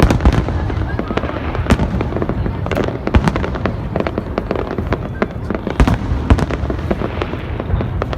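Fireworks going off: a dense, irregular run of sharp bangs and crackles over a constant rumble.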